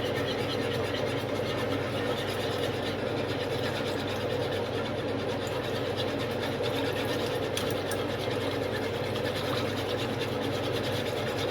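Pot of vinegar pickling brine simmering on the stove, giving a steady, even noise.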